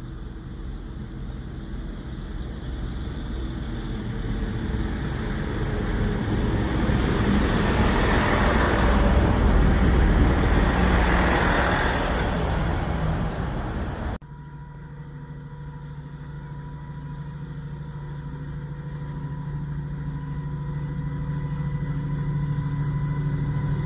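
A Great Western Railway diesel multiple unit approaching and running in along the platform: a rumble with wheel and engine noise that swells to a peak partway through, then fades. After an abrupt cut about 14 seconds in, a second diesel train's engine drone from down the line, steady in pitch and slowly growing louder as it approaches.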